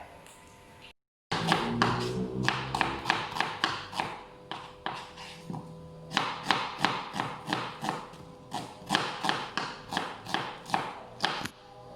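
Knife slicing onions on a cutting board: a run of sharp taps, about three a second, over background music.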